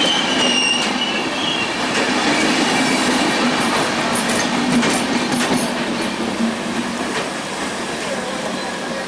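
Sundarban Express intercity train rolling along the rails through the station, a steady rumble from its carriages. A high wheel squeal fades out in the first second or two, and a run of clicks from the rail joints comes in the middle. The level eases off gradually.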